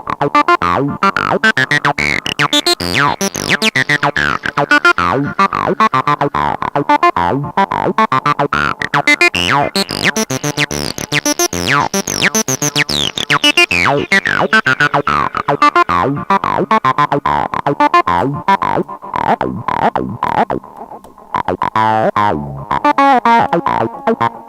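Emulated Roland TB-303 acid bassline (AudioRealism ABL2) playing a fast run of short notes through a heavily driven tube-style distortion with delay. Its resonant filter sweeps open to a bright, squelchy peak about ten seconds in and then closes down again.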